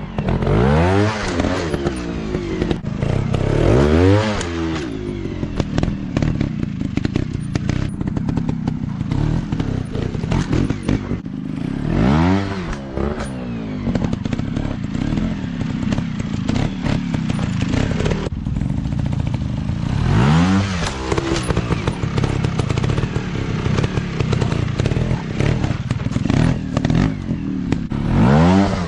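Dirt bike engines running and revving in repeated bursts, each one rising in pitch and falling back, several seconds apart, over a steady engine drone.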